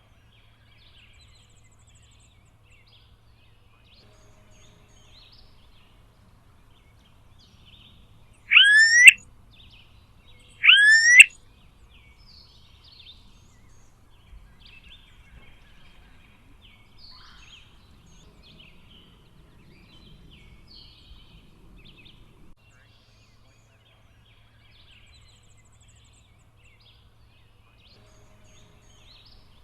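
Smooth-billed ani giving two loud whining calls about two seconds apart, each sliding steeply up in pitch. Faint scattered bird chirps are heard around them.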